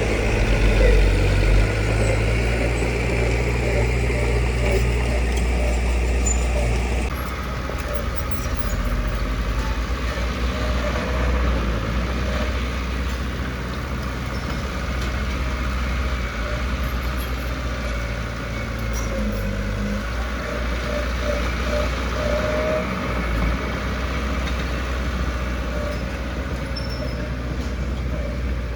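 Heavy diesel construction machinery running steadily with a low engine rumble. The sound changes abruptly about seven seconds in.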